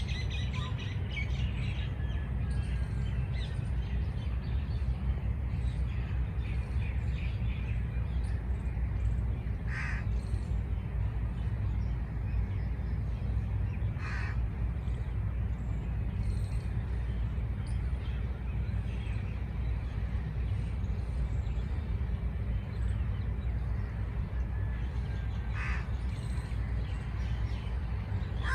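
Outdoor birds: a little chirping at the start, then three short calls spaced several seconds apart, over a steady low rumble.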